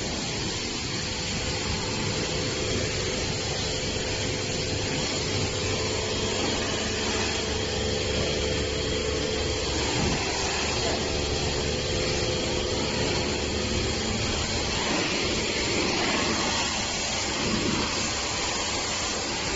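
High-pressure water spraying from a self-service car wash machine's spray gun: a steady hiss with a machine hum under it that drops out about fourteen seconds in.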